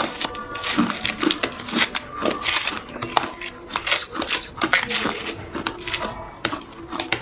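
Hard ice cubes being bitten and crunched between the teeth: rapid, irregular sharp cracks and crunches.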